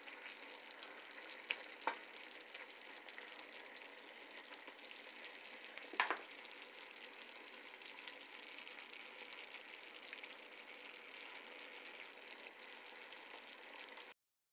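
Chicken adobo in a thick sauce sizzling in a skillet, a steady crackling sizzle with small pops. A few sharp clicks, the loudest about six seconds in, are heard. The sound cuts off suddenly just before the end.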